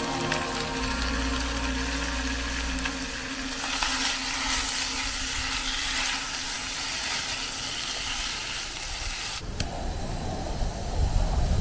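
Beef and scallions sizzling in a wok as they are stirred with tongs, a steady hiss. About nine and a half seconds in it cuts sharply to the low rushing noise of a gas torch flame.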